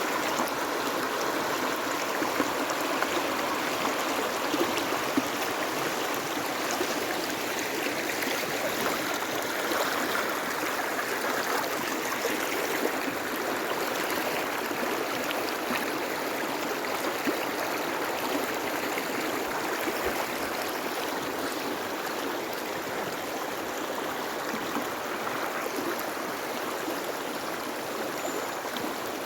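A river running full, its water rushing steadily over the stream bed.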